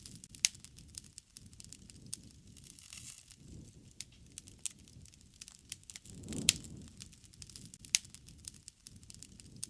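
Wood fire crackling, with sharp pops at irregular intervals over a low rumble of flame that swells about six seconds in.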